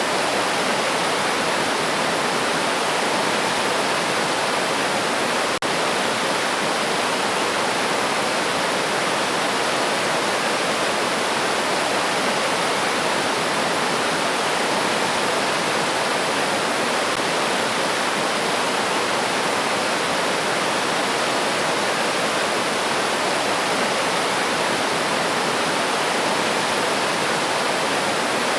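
River water flowing steadily: an even, unbroken hiss of running water, with one momentary dip in level about five and a half seconds in.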